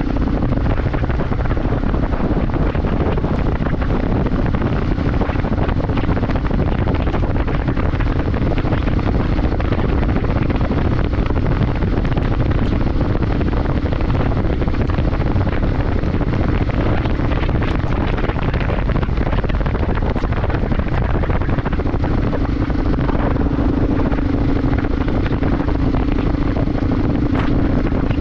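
Motorcycle engine running at a steady speed under heavy wind noise on the microphone; the engine's hum stands out more near the start and again in the last several seconds.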